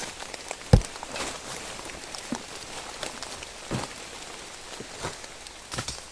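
Steady rain hiss with scattered knocks and thumps, the loudest about three-quarters of a second in, as the campsite is cleared.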